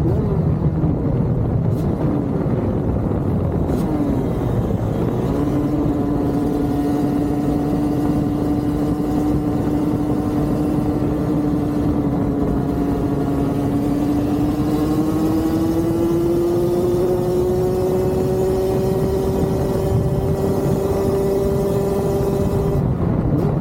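Dirt bike engine running at a steady cruising speed. From about a quarter of the way in its pitch holds even, then rises slowly over the second half, all over a loud rushing noise.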